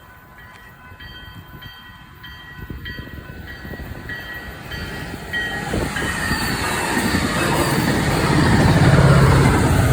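Railroad crossing bell ringing with steady, evenly spaced strikes while a Northstar commuter train approaches; the train's diesel locomotive rumble and wheel noise grow louder and cover the bell, reaching their loudest near the end as it passes.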